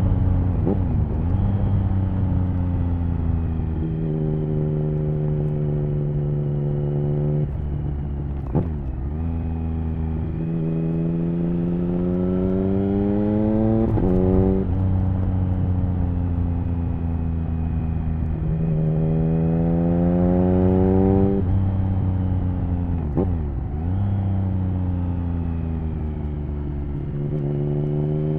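Triumph Speed Triple 1050's three-cylinder engine through an HP Corse Hydroform exhaust under hard riding. The revs climb in long rising pulls, broken by sudden drops in pitch at gear changes, then fall away off the throttle, several times over, with wind rush underneath.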